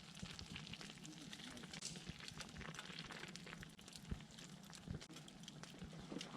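Wood fire crackling faintly, with irregular sharp snaps and pops.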